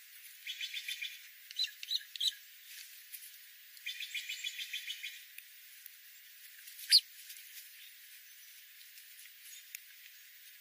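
Bird calls: two bouts of rapidly repeated high chirping notes, about ten a second, with a few separate chirps between them. A single very short, sharp sound about seven seconds in is the loudest part.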